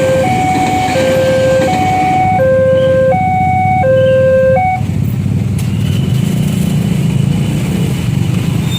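Electronic level-crossing warning alarm sounding two alternating tones, a lower and a higher one of about 0.7 s each, and stopping abruptly about four and a half seconds in. After that the low, steady rumble of road vehicle engines waiting at the crossing carries on.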